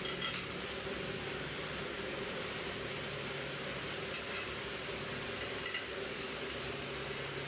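A machine running steadily: an even hiss over a low, steady hum.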